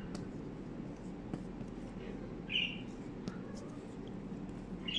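A bird chirping: a few short, high chirps a couple of seconds apart over a low steady room hum.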